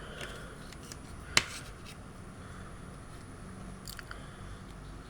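Toy packaging being handled and opened: small clicks and rustles, with one sharp snap about a second and a half in.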